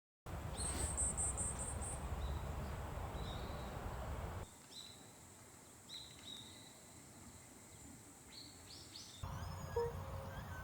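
Small birds chirping and calling over a steady outdoor background hiss, with a rapid high trill about half a second in. The background changes abruptly twice, and near the end a soft note starts repeating about once a second.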